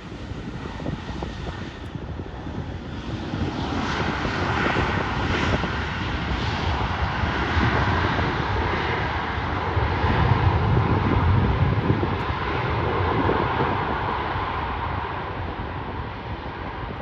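Jet airliner's engines passing, a rushing roar with deep rumble that builds over several seconds, peaks past the middle and slowly fades.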